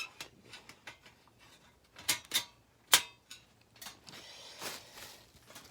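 Metal parts of a Tokyo Camp folding fire pit being handled: a few sharp clinks and taps, the loudest about three seconds in, then a stretch of rustling and scraping near the end.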